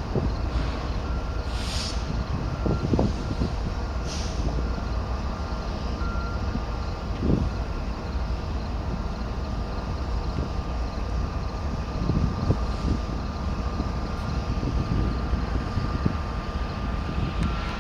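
A group of six BNSF diesel-electric locomotives moving slowly together, giving a steady low engine rumble. A thin high tone comes and goes at first and then holds steady. Two short hisses sound in the first few seconds, and a few low knocks are scattered through.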